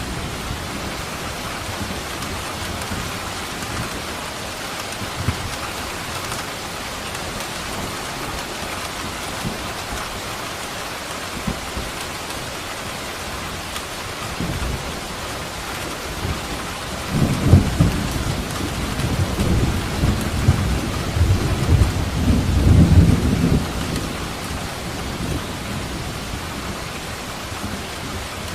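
Steady rain falling, with a roll of thunder rumbling from about two-thirds of the way in for several seconds before it fades back into the rain.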